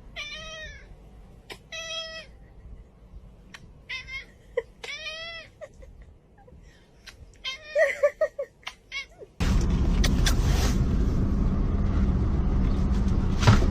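Domestic cat meowing about five times, each call rising and then falling in pitch, with pauses between them. From about two-thirds of the way in, a loud steady rushing noise takes over and drowns everything else.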